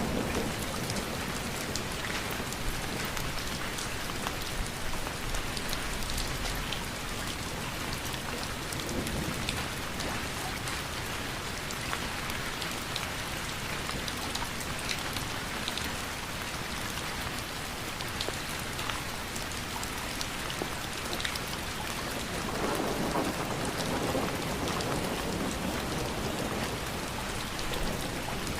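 Steady rain falling, with scattered sharp drop ticks over an even hiss, and a low rumble of distant thunder swelling briefly near the end.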